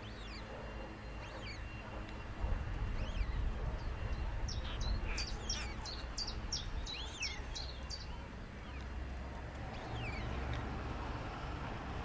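Small birds chirping: scattered short whistled notes that slide down in pitch, with a quick run of chirps from about four to eight seconds in, over a low rumble.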